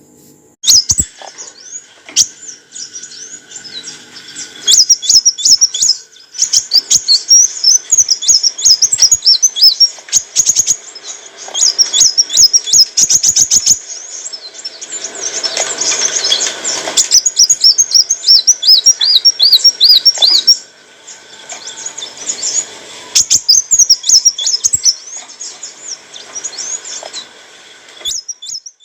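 Kolibri wulung sunbird singing: rapid, high-pitched twittering chirps and trills in long runs, broken by a few short pauses.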